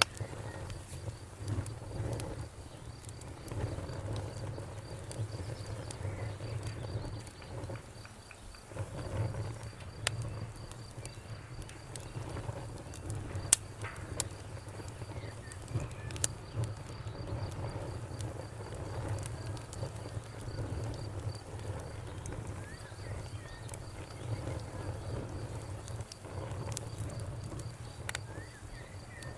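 Wood fire crackling with scattered sharp pops over a low, fluttering rumble, while a cricket chirps steadily in the background. A bird calls faintly a few times.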